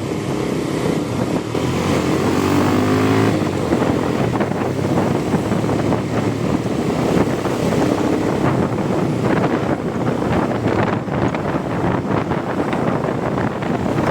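Motorcycle engine pulling under acceleration while riding, its pitch rising about two to three seconds in, with heavy wind rushing and buffeting over the helmet-mounted microphone.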